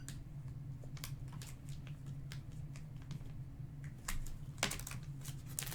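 Scattered light clicks and taps from hands at work at a table, bunching into quick runs about four and five seconds in, over a steady low electrical hum.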